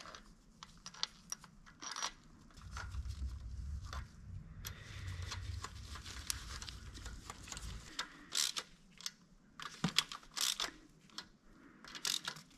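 Faint workshop handling sounds of hands and small parts on the engine: scattered light clicks and rustles, with a low rumble for a few seconds in the middle.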